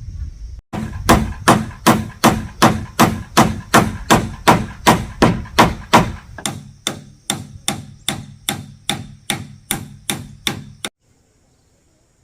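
A hammer striking in a steady rhythm, about two and a half blows a second, with a ringing tone on each blow. The blows grow lighter after the first half, then the sound cuts off suddenly.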